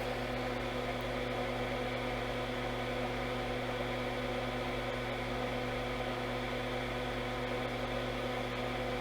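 Steady electrical hum with a faint even hiss, unchanging throughout.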